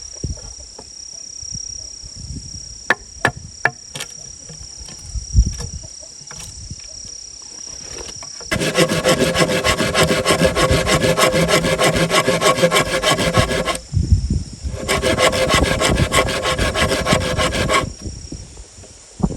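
Bamboo being sawn: two spells of steady, even sawing, the first about five seconds long and the second about three, after a few scattered knocks of handling.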